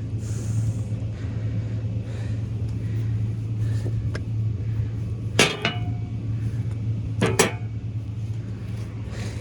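Hammer striking a chisel against a forklift battery cell's lead connectors: one sharp metallic blow that rings briefly, then a quick double strike about two seconds later, over a steady low hum.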